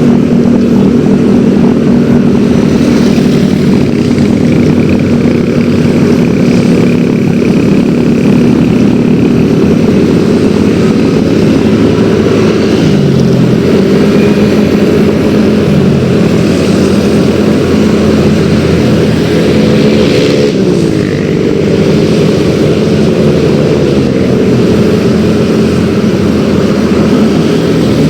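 Yamaha X-Ride 113cc scooter's single-cylinder engine running under way, its pitch dropping and climbing again several times midway as the throttle is eased off and opened.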